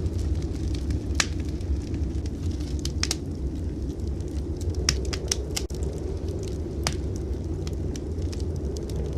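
Wood fire in a fireplace crackling, with a handful of sharp pops scattered through, over a steady low rumble.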